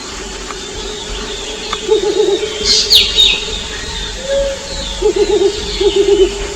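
Mottled wood owls calling back and forth to tell each other where they are: short runs of quavering, rapidly pulsed low hoots come three times, with a single smoother hoot between them. About three seconds in, a high, steeply falling chirp from another bird is the loudest sound.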